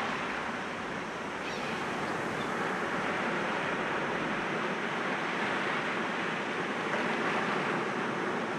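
Sea waves breaking against rocks: a steady wash of surf that dips slightly about a second in, then swells again.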